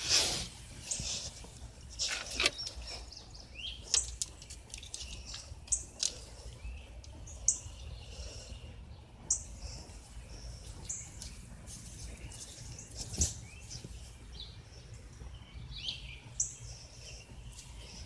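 Birds chirping now and then in short high calls over a steady low rumble, with a few sharp clicks and knocks along the way.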